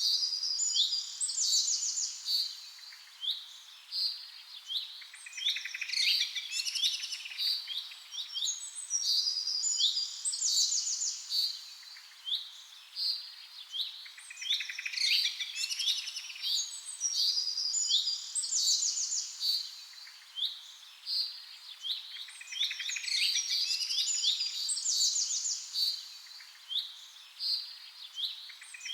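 Small birds chirping and trilling in quick high notes, with the same run of calls recurring every seven to eight seconds.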